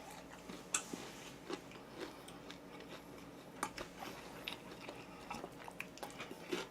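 A person eating and chewing quietly, with scattered small clicks and mouth noises.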